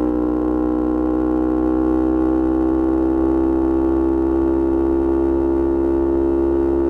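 Yamaha R25 parallel-twin engine running at steady high revs through a Kea Speed aftermarket exhaust, its pitch creeping slowly upward, as when holding a gear under light acceleration.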